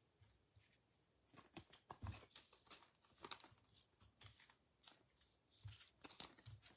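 Faint crinkling and rustling of trading cards and foil pack wrappers being handled, with scattered soft crackles starting about a second and a half in.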